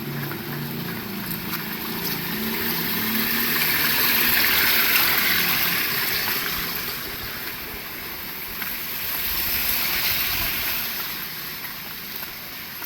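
Heavy rain pouring down, with a steady hiss. It swells louder about four to five seconds in and again briefly around ten seconds.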